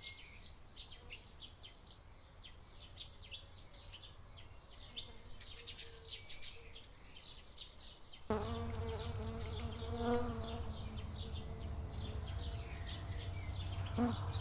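Small birds chirping in quick, high twitters. About eight seconds in, the sound cuts abruptly to a louder, steady insect buzz with a low rumble beneath it.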